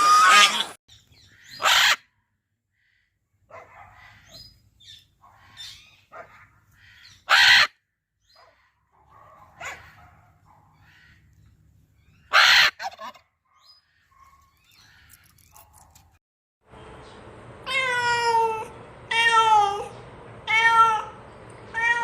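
A crow cawing three times, about five seconds apart, with faint scattered sounds in between; then, about three quarters of the way in, a cat meowing four times.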